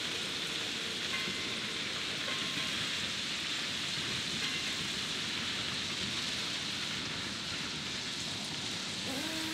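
Freight train rolling past, its wagon wheels on the rails making a steady rushing noise.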